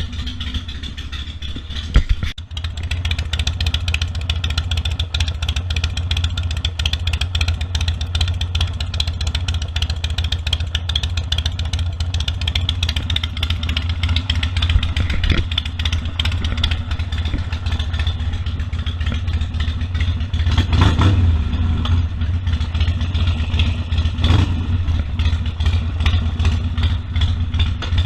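Harley-Davidson Sportster 1200 Custom's air-cooled V-twin running steadily under way, with road and wind noise. There is a sharp knock about two seconds in, and the engine swells louder twice in the second half.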